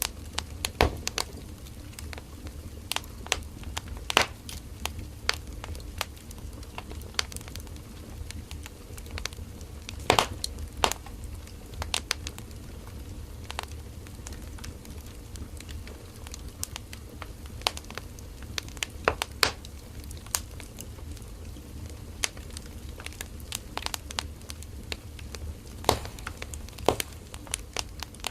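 Firewood burning in a campfire: a steady low rumble of flame with irregular sharp crackles and pops, a few louder snaps among them.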